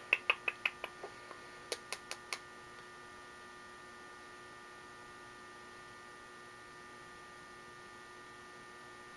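A quick run of sharp clicks, about six a second for the first second, then four more clicks around two seconds in. After that only a steady electrical hum remains.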